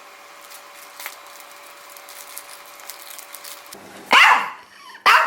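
A dog barks sharply twice, about four seconds in and again just before the end, after a stretch of faint rustling and a low steady hum. The barks come in a squabble between two pet dogs over toys.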